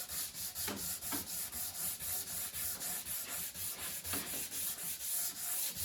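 220-grit sandpaper wrapped around a plastic ink-pen barrel, rubbed back and forth by hand along the cove cut of oak trim in quick, even strokes.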